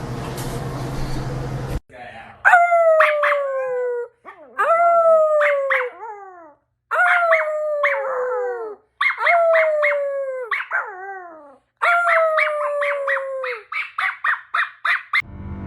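A dog howling: five long howls, each sliding down in pitch, with yips breaking in at the start of each. They end in a quick run of short yips.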